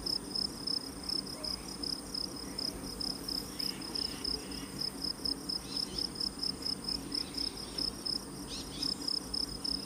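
Forest insects chirping in a steady, evenly pulsed high-pitched rhythm, with a few faint bird calls.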